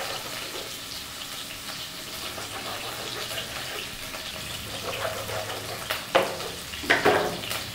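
Spleen pieces frying on low flame in sesame oil, a steady sizzle. Near the end, a few sharp knocks of a knife cutting through on a wooden board.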